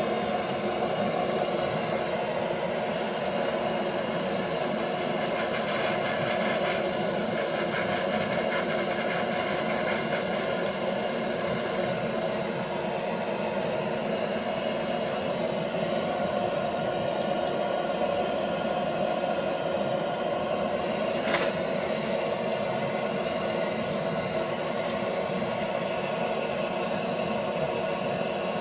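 Gas blowtorch burning with a steady hiss, heating a copper pipe and its fitting to melt solder into the joint. One brief click about 21 seconds in.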